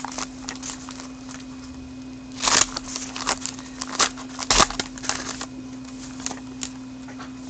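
Crinkling and rustling of a foil trading-card pack being torn open and the cards handled, with a few sharp crackles, the loudest about two and a half and four and a half seconds in, over a steady low hum.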